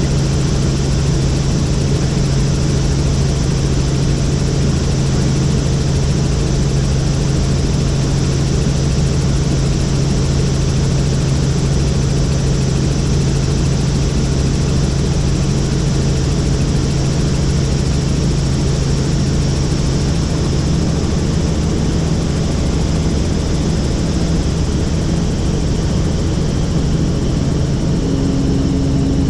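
Helicopter in flight: steady, loud rotor and engine noise with a constant low hum.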